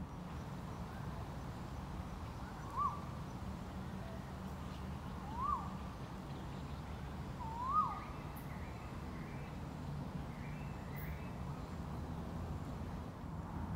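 A bird giving three short, clear calls a couple of seconds apart, each a quick rise and fall in pitch, the third one doubled. Fainter, higher chirps follow, over a steady low background rumble.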